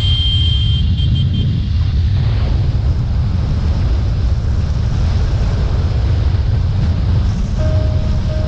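Steady low rumble of wind buffeting the microphone and a motorcycle running along the road during a ride. A thin steady tone comes in near the end.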